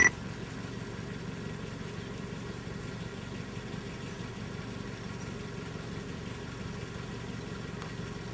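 Car engine running steadily, a low even hum, after a sharp click right at the start.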